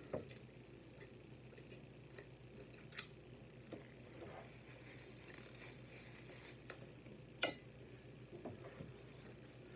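Close-miked mouth sounds of a person eating a slice of fried salami: quiet chewing with a few short sharp smacks or clicks, the loudest about seven and a half seconds in.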